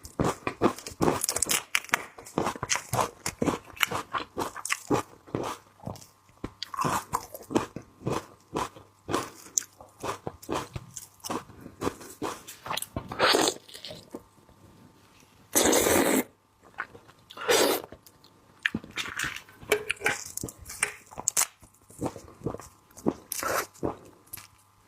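Close-miked mukbang eating: irregular crunching, biting and chewing of raw seafood, with a few louder, longer crunches around the middle.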